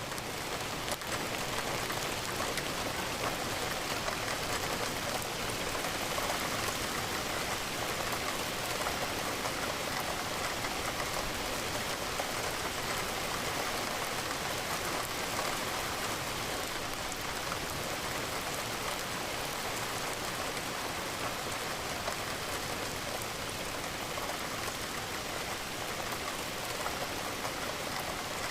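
Steady rain, an even hiss of raindrops pattering against a window.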